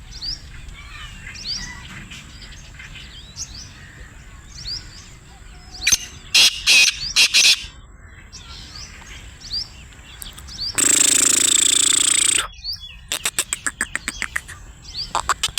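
Black francolin calling: a short run of loud, harsh notes about six seconds in, over faint chirping of small birds. Near eleven seconds there is a second-and-a-half burst of noise, then a fast series of sharp clicks toward the end.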